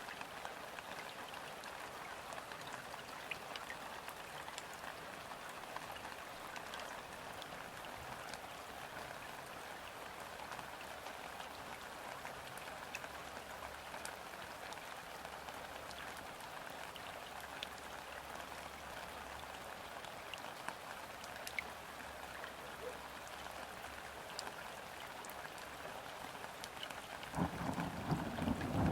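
Steady gentle rain falling on a river's surface, a soft even patter with scattered individual drop ticks. Near the end a louder, deeper rumble swells in under the rain.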